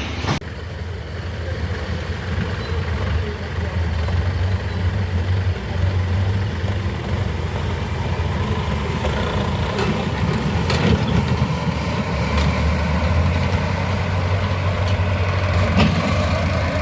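Heavy diesel engine running steadily with a deep, continuous drone that swells a little at times, with a few short clicks.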